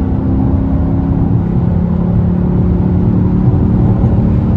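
Dodge Charger R/T's Hemi V8 running while the car drives at a steady pace: a loud low rumble with a steady low drone.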